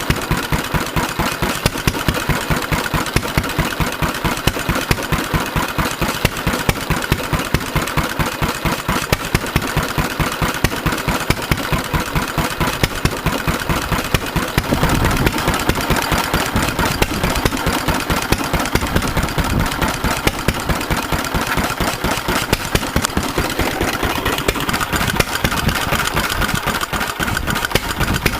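Pelapone Type FB single-cylinder four-stroke stationary engine of about 3 hp, dating from the late 1920s, running steadily with a regular firing beat.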